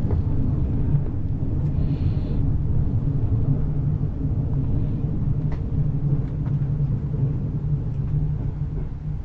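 Passenger train running on the rails, heard from inside the carriage: a steady low rumble with a few faint clicks and a short hiss about two seconds in.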